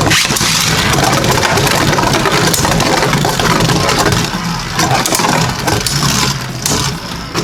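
Two Beyblade Burst Turbo spinning tops, Kerbeus K4 and Blizzard-X Gaianon, whirring in a plastic Rail Rush stadium. Their plastic and metal layers clack and scrape as they collide and grind along the stadium rails.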